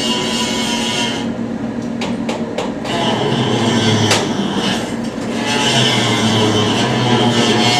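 A machine running steadily with a constant hum and rattle, and one sharp click about four seconds in.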